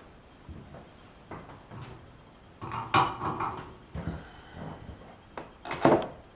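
Metal tools and parts clinking and clanking as they are handled and set down, in a string of separate knocks. There is a cluster of clanks about halfway through and the loudest knock near the end.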